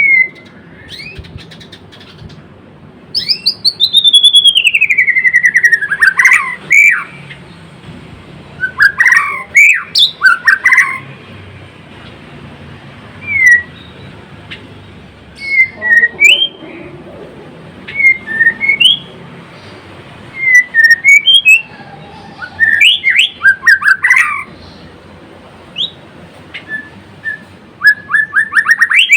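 White-rumped shama (murai batu) singing: a long whistle sliding downward, then a run of short, varied whistled phrases and chirps with short pauses between them.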